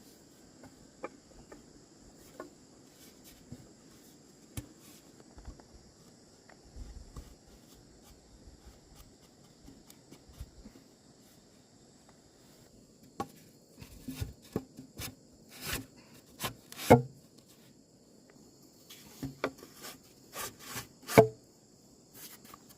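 Irregular sharp wooden knocks, sparse at first and then in a busier run over the second half, the loudest two about four seconds apart. A steady high insect drone runs underneath.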